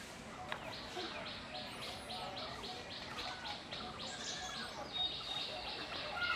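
Birds chirping: one repeats a short high note about four times a second, with other brief chirps over it.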